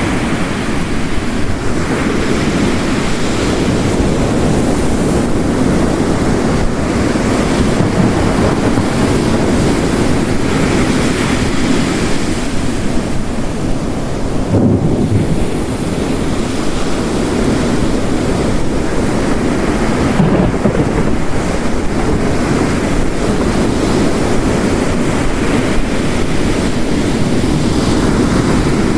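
Mixed storm ambience: heavy rain falling steadily, layered with ocean waves breaking and washing on the shore in slow swells.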